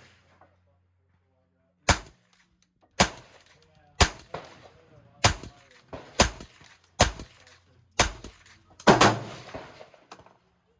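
Henry U.S. Survival AR-7 semi-automatic .22 LR rifle firing about eight or nine shots, roughly one a second, each a sharp crack with a short echo. Two shots come close together near the end.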